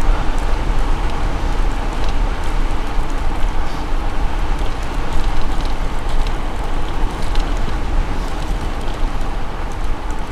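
Steady rushing wind buffeting an action camera's microphone while riding a bicycle along a country road, with road and tyre noise underneath.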